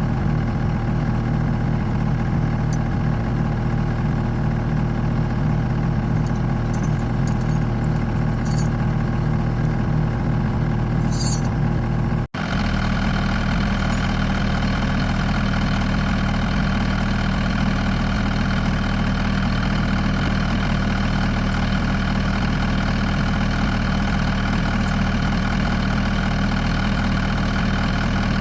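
Engine idling steadily, with a sudden cut about twelve seconds in, after which it resumes at a slightly different pitch.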